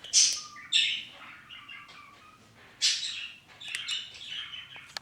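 Small pet birds chirping in short bursts, several quick calls a few times over.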